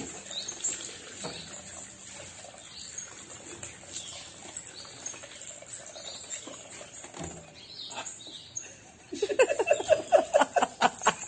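A macaw under shower water, with a steady patter of water and scattered high chirps. About nine seconds in, a loud rapid run of short calls starts, about five a second.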